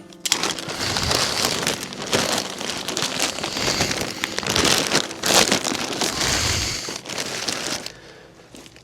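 Dense rustling and crackling that starts abruptly just after the start and dies away near the end, like dry material or a bag being handled up close.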